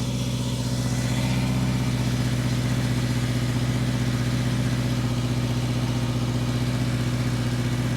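Subaru Crosstrek's flat-four boxer engine idling steadily, heard through its exhaust. The epoxy-patched joint between the intermediate pipe and the muffler is holding, with no exhaust leak.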